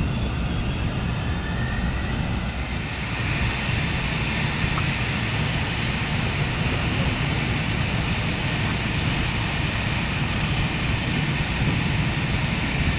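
Boeing 747-400's jet engines at high power during its take-off: a broad steady rumble, joined a couple of seconds in by a steady high-pitched fan whine that then holds.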